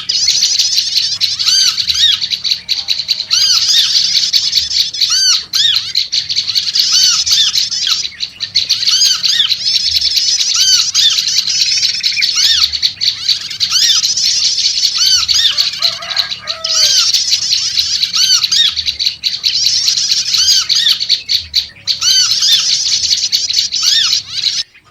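Prenjak lumut calling in loud bouts of rapid, high-pitched chattering, several seconds apart. A lower, arched call repeats steadily underneath, likely trucuk.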